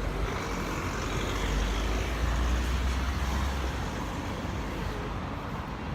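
Bus engine rumbling as it pulls away from the stop, swelling about two seconds in and then easing off, over a steady wash of street traffic.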